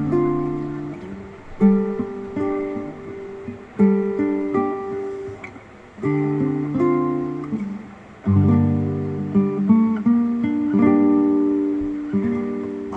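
Acoustic guitar playing the slow introduction to a song: plucked chords and single notes, a fresh chord about every two seconds, each left to ring and fade.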